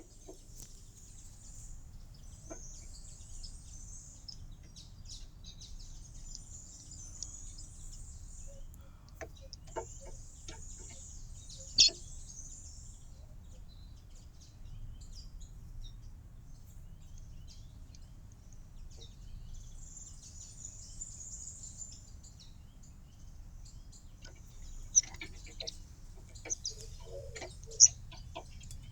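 Small songbirds chirping and twittering in short bouts, with a few sharp, louder chirps, over a steady low background rumble.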